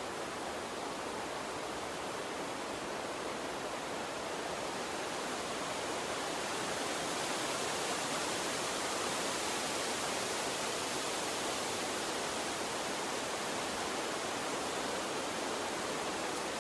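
Gentle stream of running water, a steady rushing wash that grows a little louder and brighter about six seconds in.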